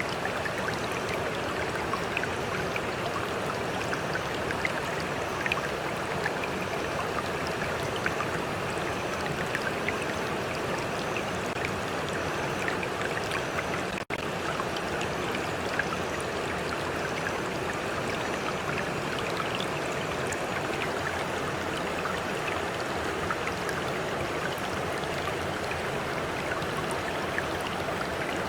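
Stream water flowing and babbling in a steady rush, with a momentary break in the sound about halfway through.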